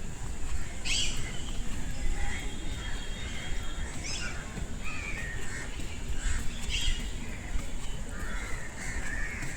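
Crows cawing, with several short calls spread through, over a steady low rumble.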